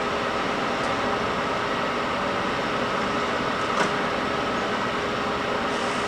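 Gallmeyer & Livingston Model 60 tool and cutter grinder running, its spindle motor and power table feed giving a steady hum with a constant tone, with one sharp click about two-thirds of the way through.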